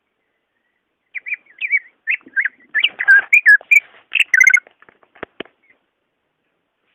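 Cucak ijo (greater green leafbird) singing: a quick, varied run of whistled and chattering notes that starts about a second in and lasts about three and a half seconds. Two sharp clicks follow.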